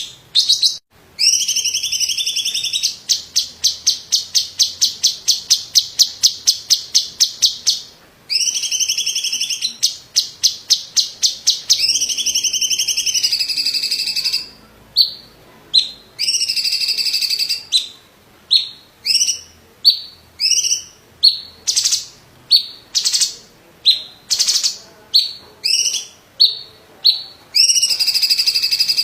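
A cucak cungkok leafbird singing loudly in high-pitched phrases. Long trilled phrases alternate with a rapid run of sharp repeated notes, then give way to a string of short clipped notes about one a second.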